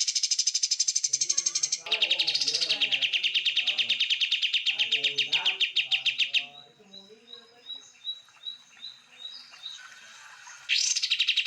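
Songbird song from a bird-tutoring recording: long, fast, high trills of rapidly repeated notes, then near the middle a slower series of about ten short, sharp notes, a few per second, before the trilling starts again near the end.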